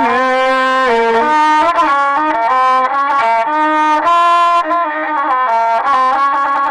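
A rababa, the Bedouin single-string bowed fiddle, plays a slow melody. It is a single line of held, nasal notes that step up and down in pitch.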